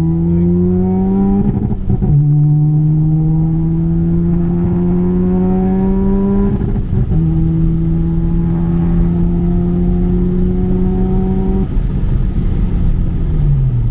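Single-turbo Mazda RX-7 FD3S's 13B rotary engine accelerating hard, its pitch climbing steadily in each gear and dropping at upshifts about five seconds apart, with a faint high whine rising along with the revs. Near the end the revs dip and pick up again.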